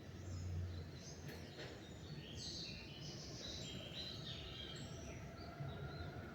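Several small birds chirping and singing in short, high notes at dawn, over a steady low rumble of background noise that swells briefly in the first second.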